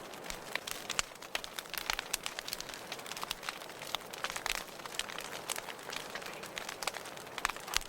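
Wood fire burning in a fireplace: irregular sharp crackles and pops over a steady soft hiss.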